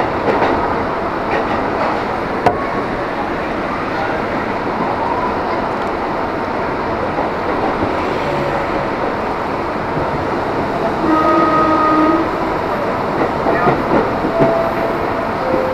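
KRL Commuter Line electric train running along the track, a steady rumble of wheels on rail heard from inside the carriage. A brief pitched tone rises over it about eleven seconds in.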